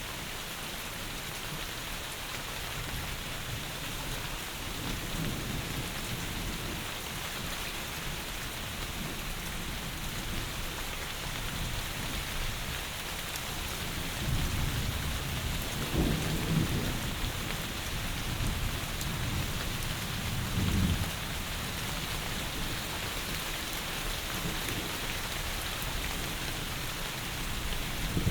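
Steady heavy rain, a dense even hiss. About halfway through, low rumbles of thunder rise twice, a few seconds apart.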